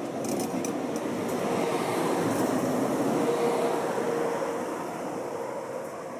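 A train rolling past on the station tracks, its noise swelling to a peak about halfway and then fading, with a steady tone sounding during the loudest part and a few sharp clicks near the start.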